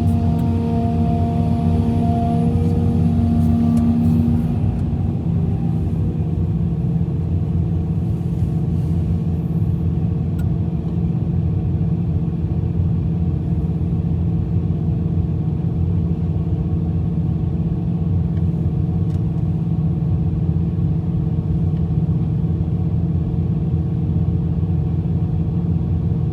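Heavy diesel engine of earthmoving machinery running steadily. For about the first four seconds a higher pitched whine sits over it, then fades, leaving the low engine sound.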